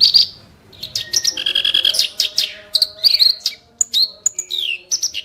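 Kerak basi reed warbler singing sharp, harsh song bursts: fast trains of short rasping notes, with a few high whistles and a falling note about four seconds in.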